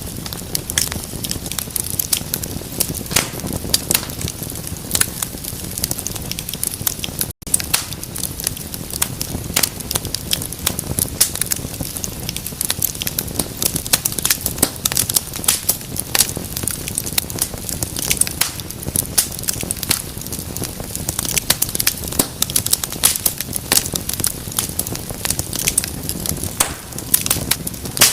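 Wood fire crackling and popping: dense, irregular sharp snaps over the low rush of burning flames, with a split-second dropout about seven seconds in.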